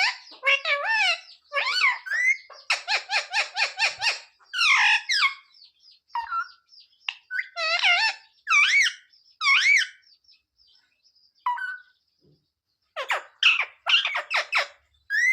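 Parrot calling: wavering, pitch-bending calls, with a fast run of short chattering notes about three seconds in. The calls stop for a few seconds and start again near the end.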